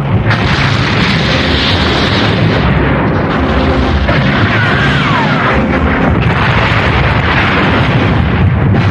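Continuous cartoon battle sound effects: explosions and cannon blasts from warring space fleets, dense and unbroken, with a falling whistling sweep about halfway through. Music is faint beneath.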